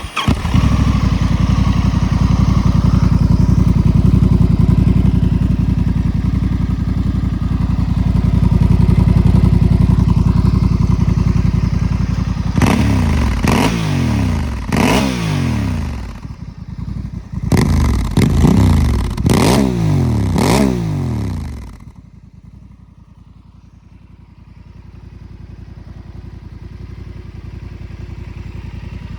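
Honda Africa Twin 1084 cc parallel-twin engine running through a Delkevic 13.5 X-Oval slip-on exhaust with its baffle in, after a hot start. It idles steadily, then is blipped several times in quick succession, each rev rising and falling. About 22 seconds in the engine sound drops away sharply.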